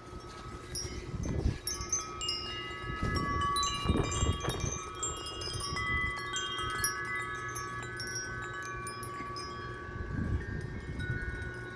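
Wind chimes ringing in strong gusts, many metal tubes struck at once so that overlapping tones build up and hang on, with wind rumbling on the microphone in bursts.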